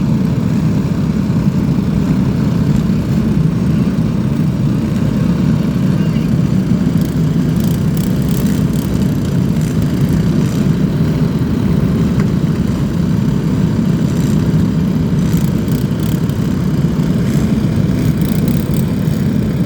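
Many riding lawn mower engines running together in a loud, steady drone.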